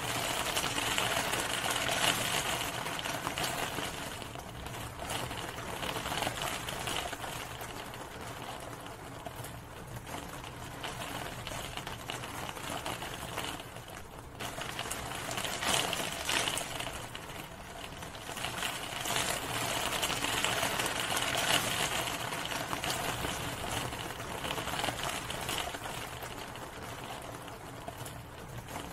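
Rain falling steadily, a dense patter of drops that swells heavier and eases off again in slow waves.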